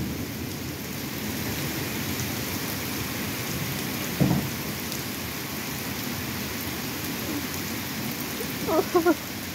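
Steady rain falling in a thunderstorm: an even hiss of rain on surfaces. A short low sound comes about four seconds in, and a brief voice-like call just before the end.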